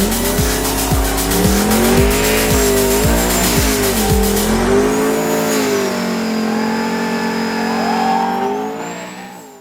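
Car doing a burnout: the engine held at high revs and wavering up and down while the tyres squeal, with background music's steady beat under the first half. It all fades out near the end.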